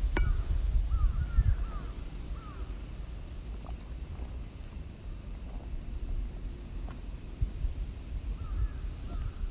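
A bird calls in short repeated notes, one group in the first couple of seconds and another near the end, over a steady outdoor hiss and wind rumble on the microphone.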